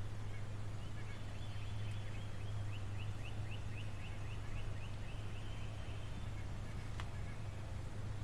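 A songbird singing a rapid series of short, repeated high notes, about five a second, for several seconds, over a steady low hum.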